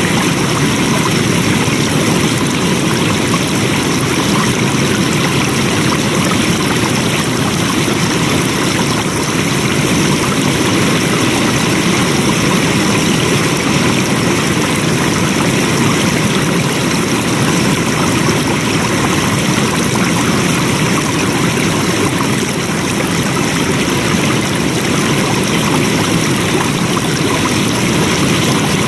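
Steady rushing of flowing water, an even wash of noise without a break.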